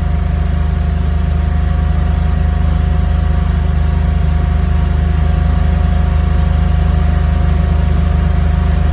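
Car engine with Bosch CIS (K-Jetronic) fuel injection running steadily, unattended, at an elevated warm-up idle a few minutes after a cold start. A steady high whine sits over the low engine hum. The mixture is running lean at about 16:1 air-fuel ratio, part of the CIS problem the owner is chasing.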